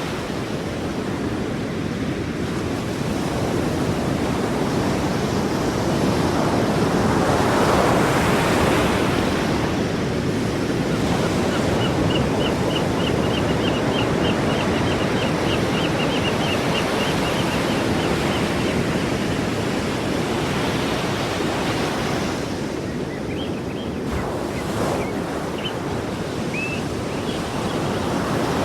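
Sea waves washing onto the shore in a steady surf, swelling to a louder break about a quarter of the way in. A rapid series of short high chirps runs through the middle, and a few single chirps come near the end.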